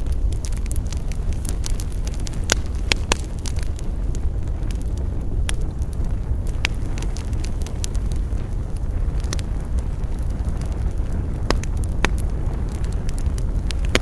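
Wood campfire burning, a steady low rush of flame with irregular sharp crackles and pops of burning wood.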